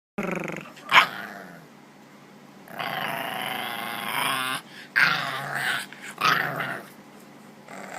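Bulldog puppy growling, in several drawn-out growls, the longest about two seconds, broken by a few short, louder yips.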